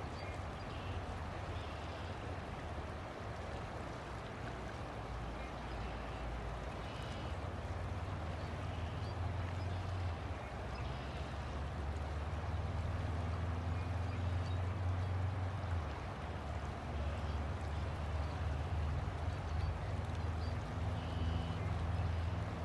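River water rushing steadily, with a low rumble underneath that grows louder in the second half.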